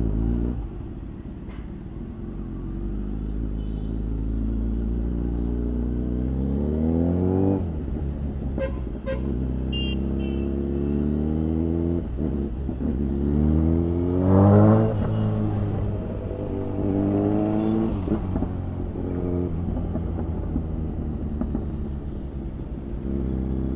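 Motorcycle engine pulling through the gears while riding: its pitch climbs and then drops at each upshift, several times over. A few short clicks and snatches of a horn are heard along the way.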